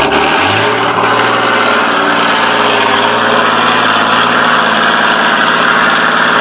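Tatra 6x6 trial truck's diesel engine running hard and steadily, its pitch stepping up about half a second in and then held.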